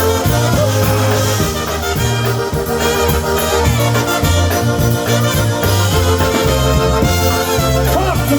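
Live polka band playing an instrumental break between sung verses, with accordion and brass over a bass line that changes note every half second or so.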